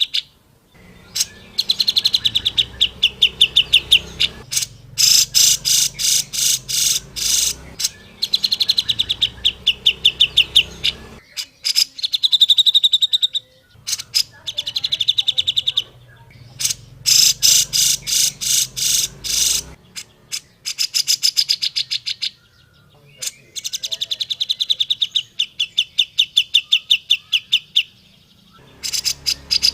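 Cucak jenggot, a bulbul, singing: repeated phrases of rapid, evenly spaced chattering notes, each phrase about two to three seconds long with short pauses between.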